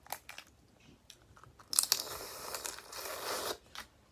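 Boiled crawfish being eaten close to the microphone: a couple of small shell clicks, then about two seconds of loud crunching starting a little under two seconds in.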